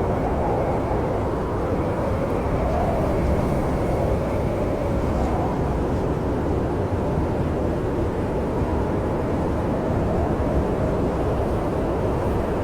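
Snowstorm wind blowing steadily with a low rumble and a slowly wavering howl. A few faint crackles of a log fire come through.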